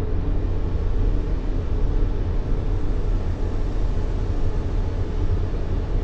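Steady baby-sleep white noise: a deep, even rumbling hiss, heavy in the low end and softer in the highs, with no change.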